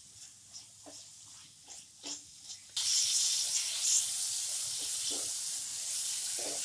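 Chopped tomatoes and spice masala frying in oil in a non-stick kadhai while a spatula stirs them: a few faint scraping strokes at first, then about three seconds in a steady sizzle sets in abruptly.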